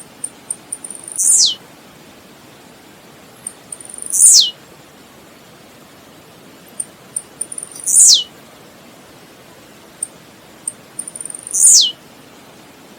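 Blue-black grassquit (tiziu) singing: four songs about four seconds apart, each a few quick high ticks followed by a loud note sliding steeply down in pitch, over a steady hiss.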